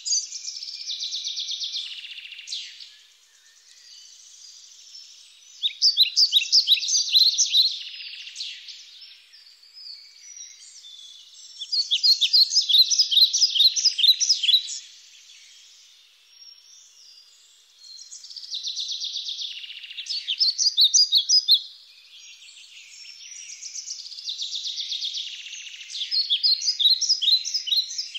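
Songbirds singing: bursts of quick, high chirping notes, each about two to three seconds long and recurring every six seconds or so, with softer twittering between.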